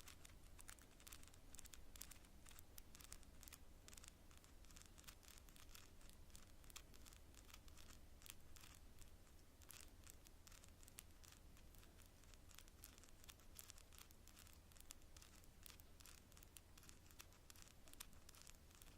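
Long natural fingernails tapping on cards: a fast, irregular run of light, sharp clicks, kept faint and close as in binaural ASMR.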